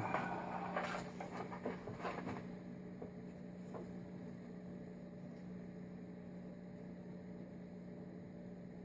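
A few faint clicks and rustles of small parts being handled in the first couple of seconds, then a steady low electrical hum.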